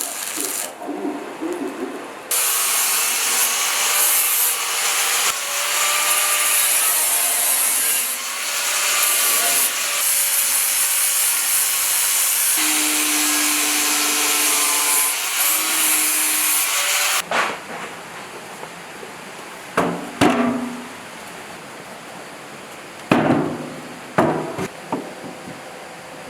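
A handheld power tool grinding or sanding a surface for about fifteen seconds, its pitch wavering slightly under load, then stopping abruptly; a few sharp knocks follow.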